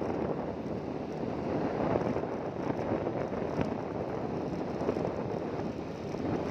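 Motorboat engine running steadily under way, with wind on the microphone.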